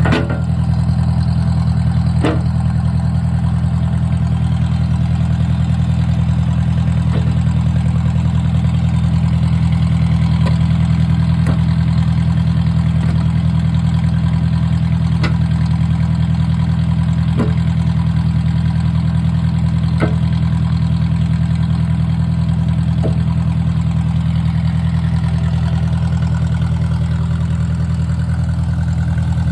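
1953 Ford Jubilee tractor's four-cylinder engine running steadily at an even speed, with a few sharp knocks now and then.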